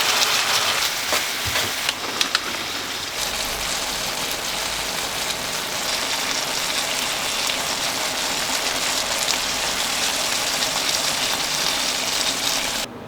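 Food frying in a hot pan: a steady sizzling hiss with scattered crackles, cutting off suddenly near the end.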